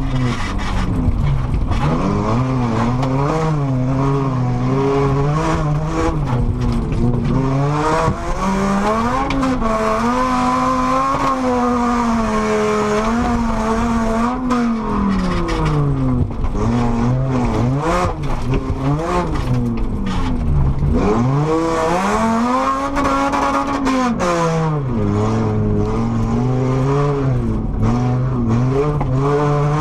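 Volvo car engine heard from inside the cabin under hard driving on a dirt track. The revs climb and fall over and over, with several sharp drops as the driver lifts off or changes gear.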